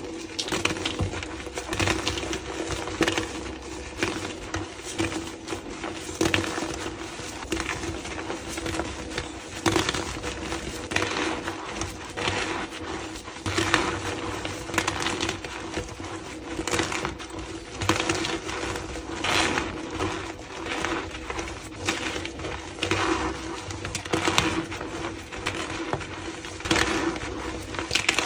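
Blocks of gym chalk being crushed and crumbled, a continuous run of dry crunching and crackling with frequent sharper snaps.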